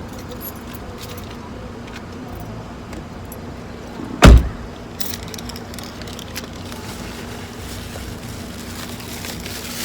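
A car door shutting with a single heavy thump about four seconds in, over a steady low hum.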